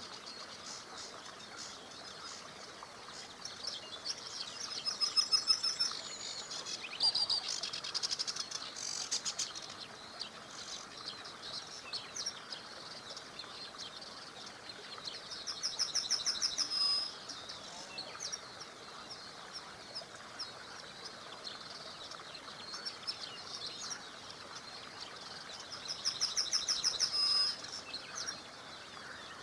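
Songbirds singing, with scattered chirps throughout; one bird repeats a loud, rapid trilled phrase three times, about ten seconds apart. Underneath is a faint steady rush of running water from a small river.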